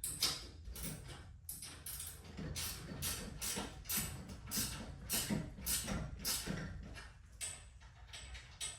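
Ratchet wrench tightening the set screws on a garage door torsion spring's winding cone, with short rasping ratchet strokes about twice a second that get quieter near the end.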